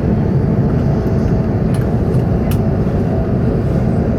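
Steady low rumble of airflow and engines inside the cabin of an Airbus A380 in flight on approach, with a faint steady tone running through it.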